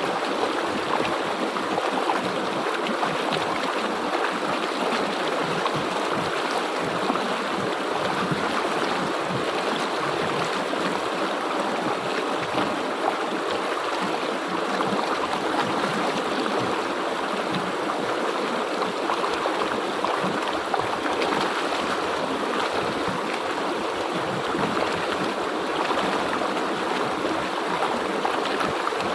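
River water flowing steadily over rocks, a continuous even rushing with a bubbling texture.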